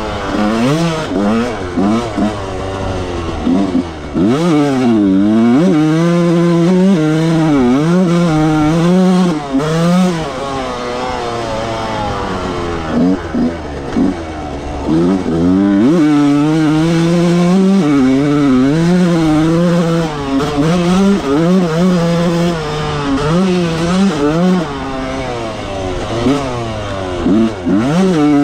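A 1995 Yamaha YZ125's single-cylinder two-stroke engine being ridden hard around a track, its pitch dropping sharply and climbing back again and again as the throttle is worked, with long stretches held at high revs.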